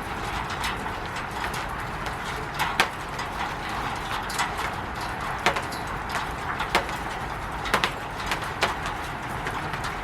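Rain falling on a roof: a steady hiss with irregular louder drops tapping sharply on the surface.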